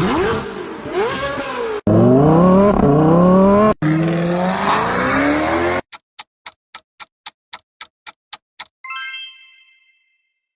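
Three short clips of different car engines revving, each about two seconds, cut one straight after another. Then a quiz countdown timer ticking about five times a second for a couple of seconds, and a bell-like chime that rings out and fades.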